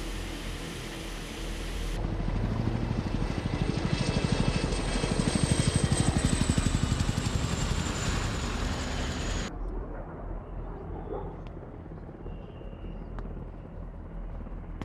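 Helicopter rotor blades chopping rapidly and evenly, with a high turbine whine that falls slightly in pitch. After about nine and a half seconds it changes abruptly to a quieter, duller sound.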